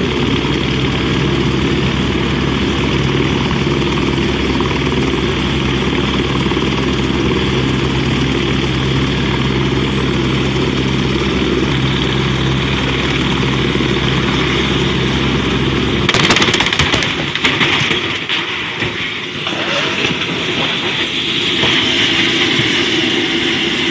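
A steady engine drone, cut off about two-thirds of the way through by a sudden cluster of sharp crashing impacts, followed by an irregular, noisier rumble.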